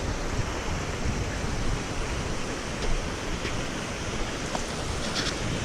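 Steady rushing wind, buffeting the microphone at the low end, with a few faint clicks scattered through it.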